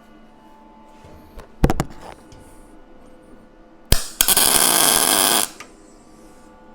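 Welding arc laying a tack weld on steel plate: a sharp click, then about a second and a half of loud, steady arc crackle that cuts off abruptly. A brief loud burst comes a couple of seconds earlier.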